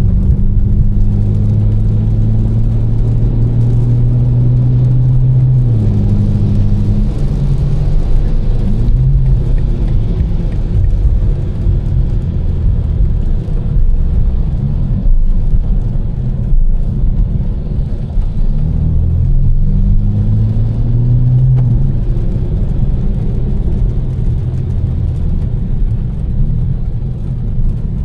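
Tuned BMW M4's twin-turbo inline-six pulling at light load over steady low road and tyre rumble. The engine note holds steady, changes about six seconds in, then rises as the car accelerates near twenty seconds in before falling back under the road noise.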